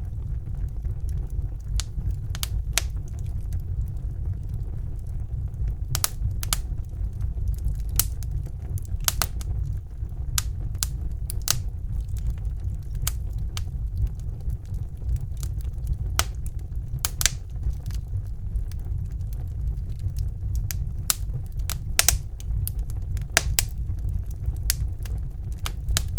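Wood fire burning in a fireplace: irregular sharp crackles and pops of the burning logs, some louder than others, over a steady low rumble of the flames.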